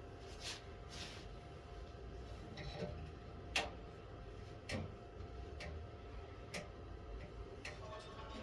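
Scattered light taps and clicks, roughly one a second, with a sharper click about three and a half seconds in, over a faint steady background.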